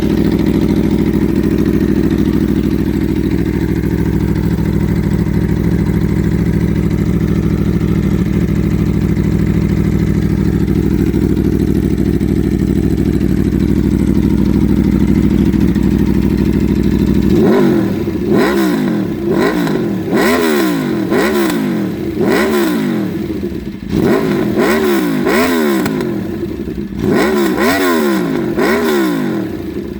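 Warm 2015 Aprilia RSV4 Factory V4 engine through an Austin Racing GP2 slip-on exhaust with the baffle removed, idling steadily. After about 17 seconds it is revved in a series of short throttle blips, each rising and falling in pitch.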